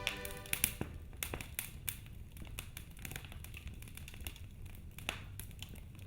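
Wood fire crackling in a fireplace: irregular snaps and pops over a low steady rumble of the flames. Lingering musical tones fade out within the first second.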